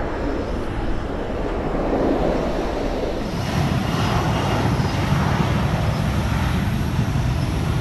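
Jet aircraft passing overhead, a steady engine rumble that grows louder about three seconds in.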